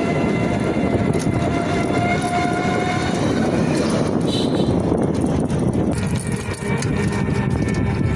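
Engine running steadily, a dense low drone with faint whining tones above it; about six seconds in the higher sounds drop away and the tones shift.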